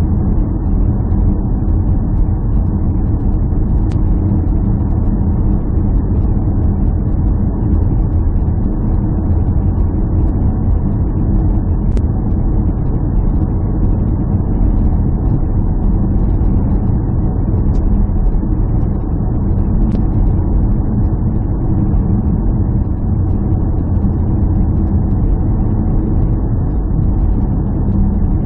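A steady low mechanical drone, like an engine running at a constant speed, with a few faint ticks.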